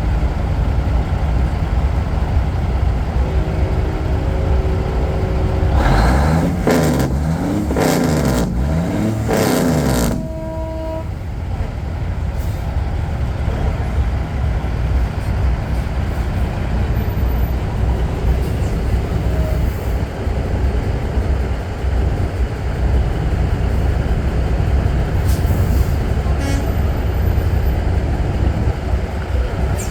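Heavy trucks' diesel engines rumbling past steadily in a parade. About three seconds in air horns begin to sound, rising to a loud run of wavering, changing tones for about four seconds before stopping; a few short hisses of air follow later.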